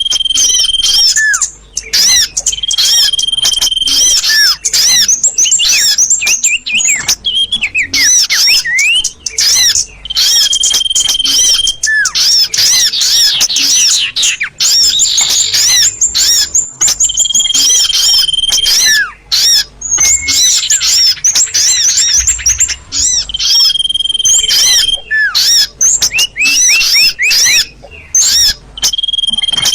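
Small-bird calls from a bird-luring mp3 recording: dense, rapid high chirps and short falling notes, with a steady held whistle of about a second that recurs every few seconds.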